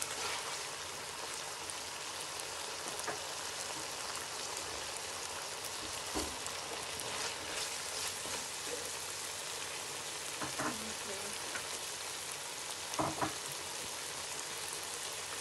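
Small diced chicken pieces sizzling steadily as they fry in oil in a nonstick wok, with a spatula stirring through them and a few short knocks against the pan.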